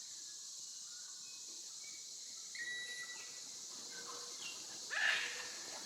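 Outdoor forest ambience: a steady high insect hiss, with several birds giving short whistled notes and one louder bird call about five seconds in.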